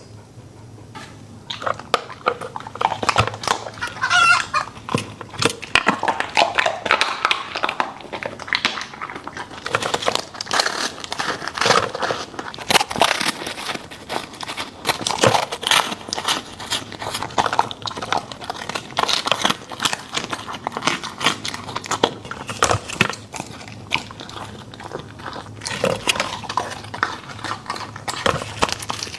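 Border Collie eating: dense, fast chewing, smacking and crunching that starts about a second in and keeps going.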